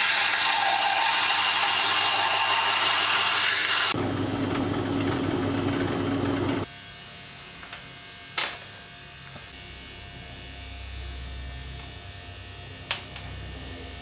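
A small handheld power tool running against metal parts, its pitch dropping a few seconds in before it stops abruptly. Afterwards a faint steady high whine continues, with two sharp clicks several seconds apart.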